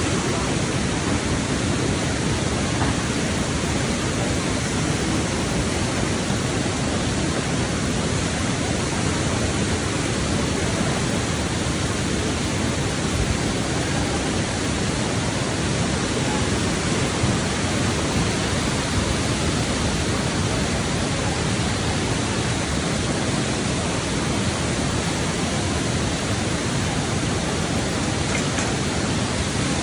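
Steady, even rushing noise of a tropical cyclone's heavy rain and wind.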